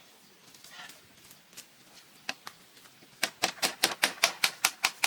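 Sharp knocks of a hand tool striking bamboo: a few scattered taps, then from about three seconds in a quick, even run of strikes, about five a second.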